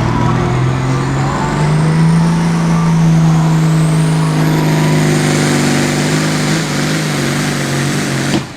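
Hot farm pulling tractor's turbocharged diesel engine running hard under full load on a pull. Its note steps up about a second and a half in and then holds steady, while a high turbo whine climbs steadily in pitch, and the sound cuts off suddenly near the end.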